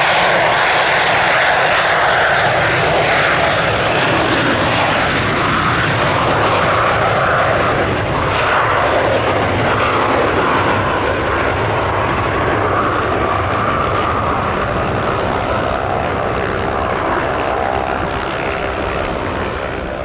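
Hawker 850XP business jet's twin Honeywell TFE731 turbofans at takeoff power as it departs, a loud steady rush that slowly fades near the end.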